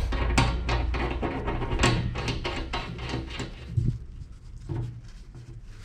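Knocks and clatter of objects being handled and set down, thick and quick for the first three or so seconds, then a few sparser knocks.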